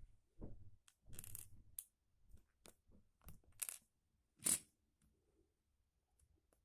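Lego bricks being pried and pulled apart by hand: scattered small plastic clicks and scrapes, with a sharper snap about four and a half seconds in.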